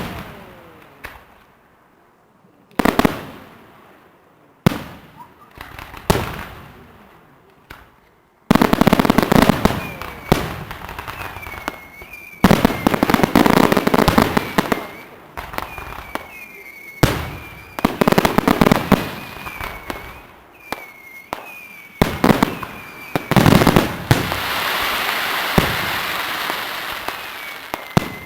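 Firework display: a few single shell bursts, each a sharp bang with a ringing tail, then from about a third of the way in a rapid barrage of bangs. Short whistling tones are mixed in, and a spell of steady crackling comes near the end.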